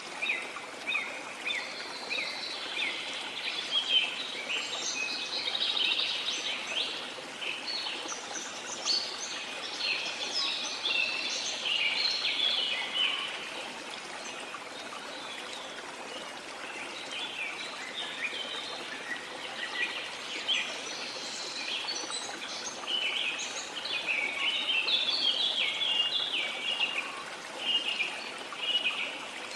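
Many birds chirping and singing over a steady rush of falling water. The calls are busiest in the middle and again near the end, with a thinner stretch in between.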